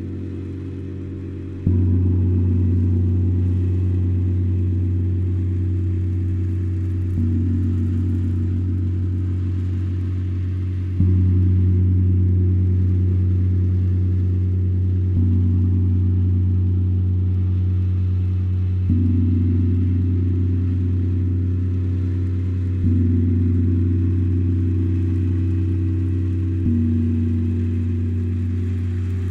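Deep, low-pitched struck tones from a meditation instrument, each ringing on and fading slowly. A new strike comes about every four seconds, seven in all, and the upper pitches change from strike to strike.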